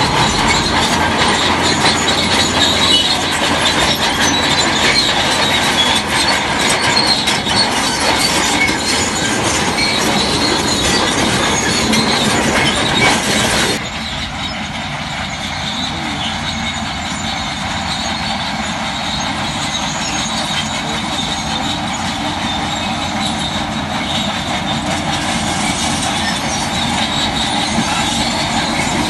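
Crawler bulldozer at work: steel tracks squealing and clanking over a running diesel engine. About halfway through, the sound changes abruptly and gets a little quieter.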